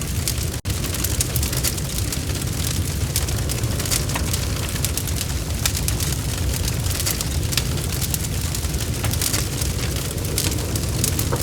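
Log fire burning in a fireplace: frequent sharp crackles and pops of the wood over a steady low rumble of the flames, with a momentary dropout about half a second in.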